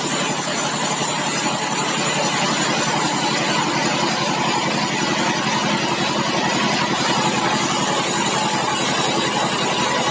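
Sawmill machinery running steadily: an engine-like drone with a fast, even pulsing beat and a hiss over the top, holding constant throughout.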